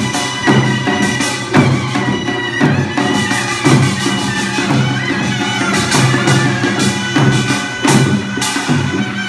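Korean traditional instrumental music: a sustained wind-instrument melody over drum strokes about once a second.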